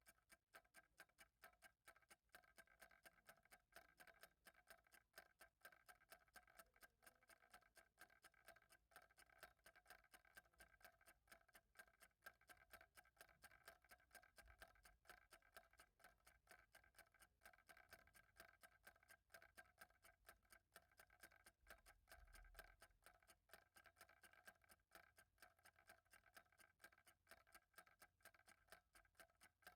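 Clock ticking steadily and faintly.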